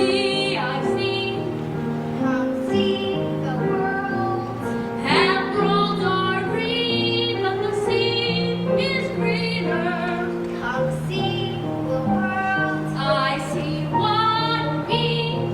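A high solo voice singing a slow melody with vibrato over sustained instrumental accompaniment.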